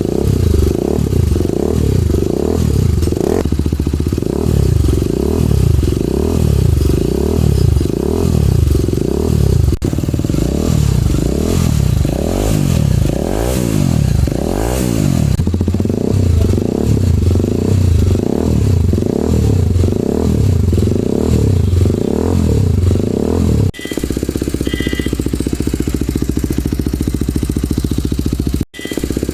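TVS Apache RR310's single-cylinder engine through an aftermarket full-system exhaust, revved in quick blips, a little more than one a second. About four-fifths of the way in the revving breaks off and the engine idles steadily.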